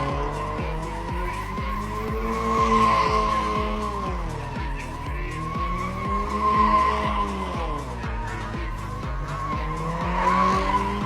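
Toyota GT86's flat-four engine revving up and down in repeated swells, about every three seconds, over a steady, continuous tyre squeal as the car drifts.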